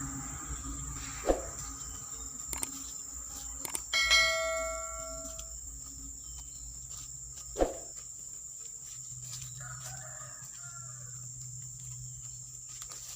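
Steady high-pitched insect buzz. About four seconds in, a loud pitched tone starts sharply and fades over about a second and a half. Two sharp knocks come about six seconds apart.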